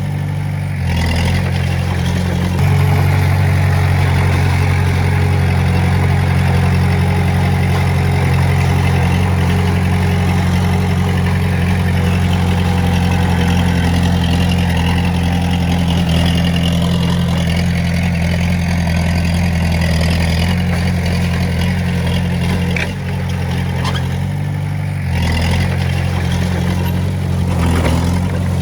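Diesel engine of heavy earth-moving machinery running steadily. Its note shifts briefly about a second in and again near the end.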